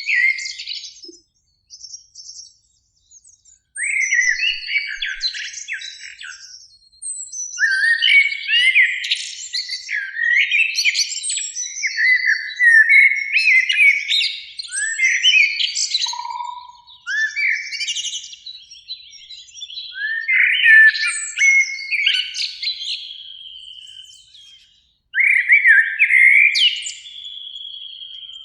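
Eurasian blackbird singing: a string of whistled phrases ending in higher twitters, each a second or few long, with short pauses between them.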